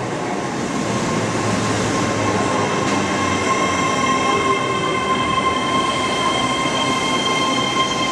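TransPennine Express Nova 1 (Class 802) train running into the platform, steady rolling rail noise with high, steady squealing tones from wheels and brakes.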